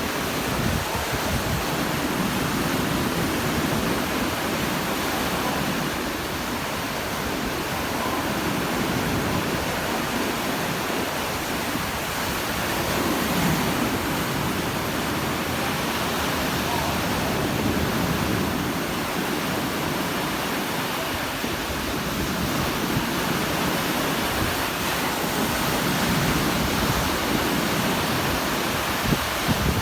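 Sea waves washing onto the shore in a continuous rush, swelling and easing gently every few seconds.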